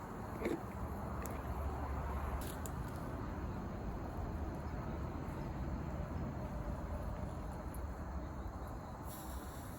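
Wood campfire burning: a steady low rush with a few sharp crackles.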